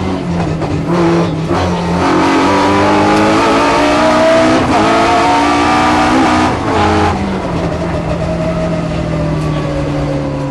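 Race car engine heard from inside the cabin, revving hard and climbing in pitch, with several brief dips where it shifts gear, then holding a steadier, slowly falling note toward the end.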